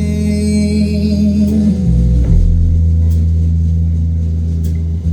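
Guitar accompaniment to a slow folk song: chords held and left ringing, with a chord change about two seconds in.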